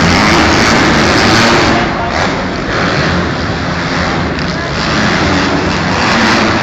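Motocross motorcycle engines running together, a loud continuous mix of engine noise.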